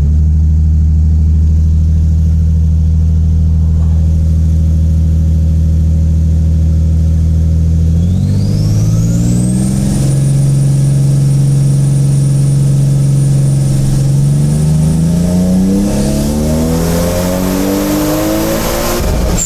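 Toyota Supra's 2JZ-GTE twin-turbo straight-six running under load on a hub dyno. It holds steady revs for about eight seconds, then climbs, holds and climbs again, with a high whine rising alongside, and falls back right at the end.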